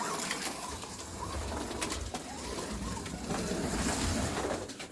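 NSR Corvette slot car with a sidewinder motor lapping the track at full throttle: the motor whine rises and falls again and again as the car speeds down the straights and slows for the corners, over a low rumble of the car running in the slot.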